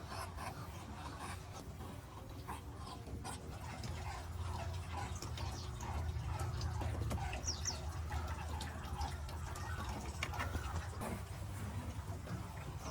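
Duck-pen ambience: scattered soft calls and clicks from muscovy ducks over a steady low rumble, with a brief high chirp about halfway through.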